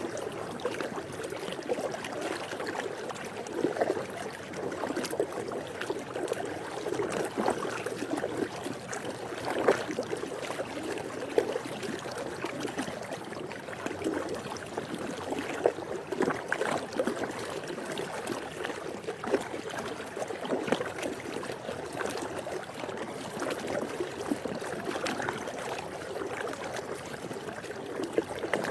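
Swimming pool water lapping and trickling steadily, dotted with frequent small splashes.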